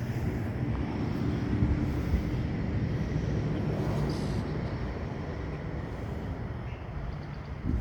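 Low, steady rumble of a passing motor vehicle, swelling over the first couple of seconds and slowly easing off.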